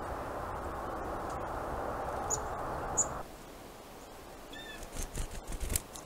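Small birds at a woodland feeder: two very short, high chip notes over a steady hiss. After a cut, one short call, then a quick cluster of knocks and thumps near the end.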